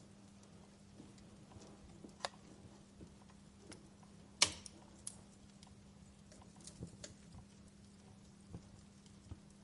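Wood fire crackling: scattered irregular snaps and pops, one sharp pop louder than the rest about halfway through, over a faint steady hum.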